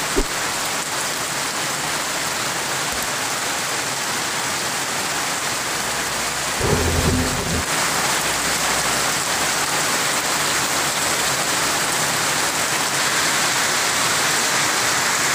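Heavy rain pouring down steadily, growing a little louder toward the end, with a brief low rumble about seven seconds in.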